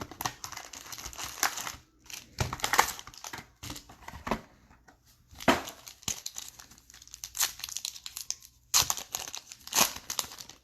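Plastic wrapping on a box of trading cards being torn open and crinkled, in irregular crackling bursts that stop suddenly near the end.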